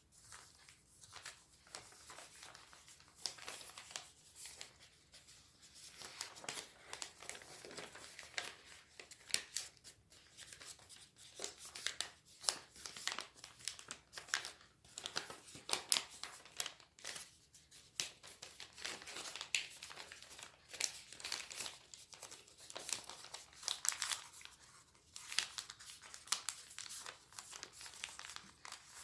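A sheet of origami paper being folded and creased by hand: irregular crinkling and rustling with sharp little crackles of the paper.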